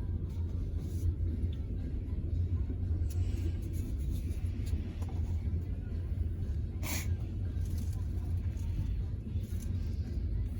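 Steady low vehicle rumble heard from inside a car, with a single sharp click about seven seconds in.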